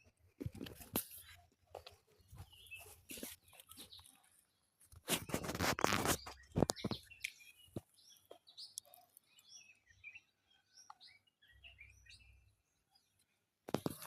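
Rustling and crackling of grass or leaves being handled or walked through, loudest for a couple of seconds midway, with faint bird chirps.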